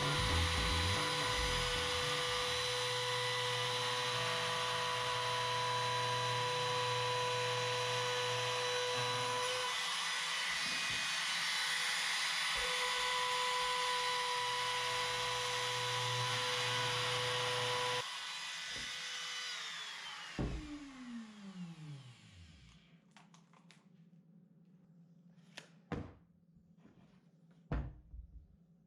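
Electric power sander running steadily on wooden door-jamb stock, then switched off about twenty seconds in and winding down with a falling whine. A few light knocks follow near the end.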